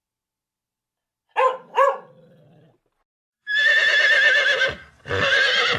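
A dog barks twice in quick succession, then a horse whinnies: a long, loud, quavering call, followed after a short break by a second whinny.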